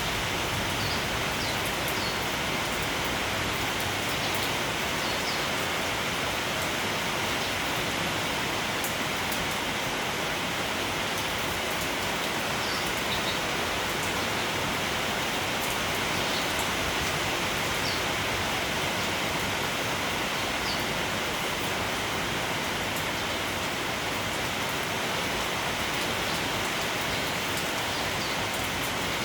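Steady rain falling on foliage, a continuous even hiss. Faint short chirps of sparrows are scattered through it every few seconds.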